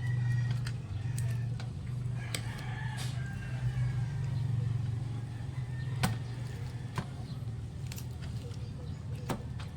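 A rooster crowing in the background, a drawn-out call that tails off, over a steady low hum. Later come a few sharp clicks.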